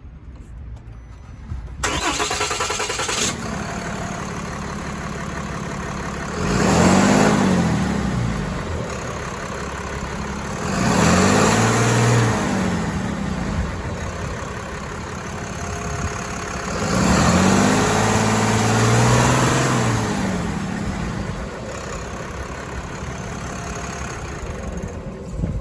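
A Ram 3500 pickup's engine cranks and catches about two seconds in, then idles. It is revved three times, each rev rising and falling back to idle, and is shut off near the end.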